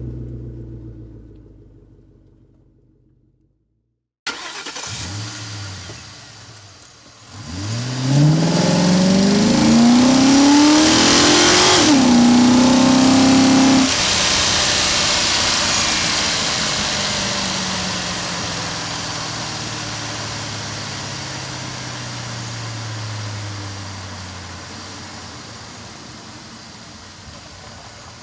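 A car engine starts, then accelerates: its pitch climbs steadily for about four seconds, drops with a gear change and holds briefly. The engine note then fades gradually, falling in pitch, as the car pulls away. Before that, the tail of a previous engine sound dies into a moment of silence.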